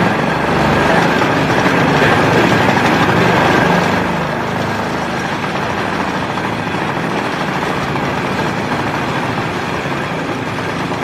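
Railway motor inspection trolley running along the track, its small engine going steadily with rail and wheel noise; a little quieter from about four seconds in.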